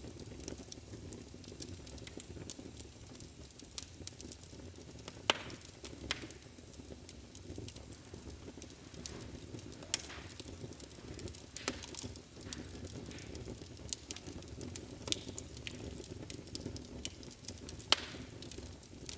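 Wood fire burning in a fireplace: a steady low rustle of flames with frequent sharp crackles and pops. The loudest snaps come about five seconds in and near the end.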